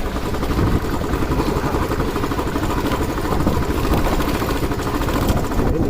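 Motorcycle engine running steadily while riding, heard through a helmet-mounted mic along with wind and road noise.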